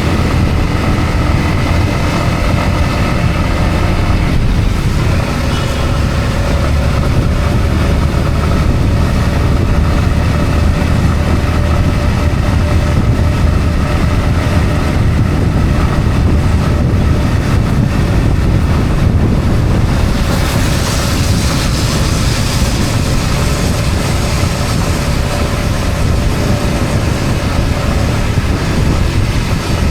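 Yamaha MT-15's single-cylinder engine running steadily under way, with tyre hiss on a wet road. From about twenty seconds in, a louder high hiss comes up over the engine.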